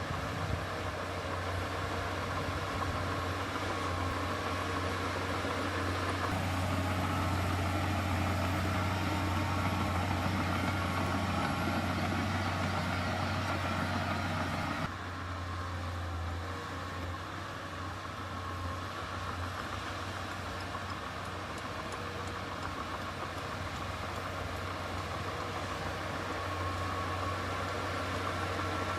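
Diesel engine of heavy earthmoving equipment running steadily with a low drone; the sound changes abruptly about halfway through.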